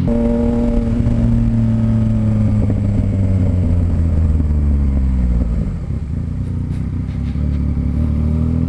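Yamaha Tracer 900 GT's three-cylinder engine running at cruising speed, its pitch slowly sagging. About six seconds in the throttle is rolled off and the sound dips, then the engine note climbs again near the end.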